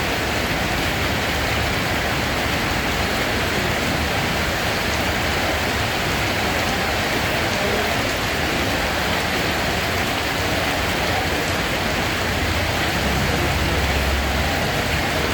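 Steady rain falling, a dense, even hiss of drops that holds at one level throughout.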